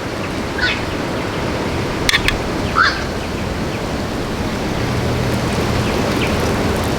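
Short bird chirps, three or so, over a steady rushing noise, with a couple of sharp clicks in between.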